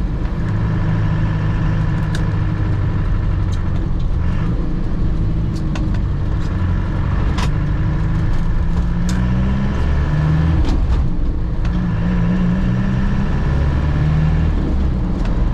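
A 1998 Land Rover Defender's engine running as it drives, heard from inside the cabin. The engine note steps up and down in pitch partway through, and there are a few sharp clicks.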